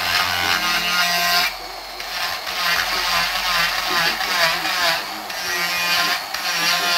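Handheld power carving tool running against wood, its whine wavering in pitch as the load changes, easing off briefly about a second and a half in and again about five seconds in.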